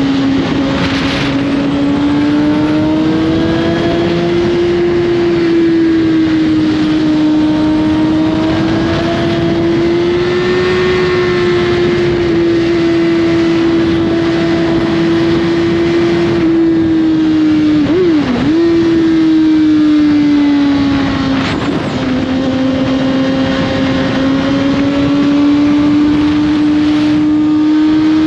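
2021 Suzuki GSX-R1000's inline-four engine through an Austin Racing slip-on exhaust, running on the road at a fairly steady engine speed that rises and falls gently. About 18 seconds in the revs dip and jump sharply, then drop again a few seconds later, with a steady rush of wind noise throughout.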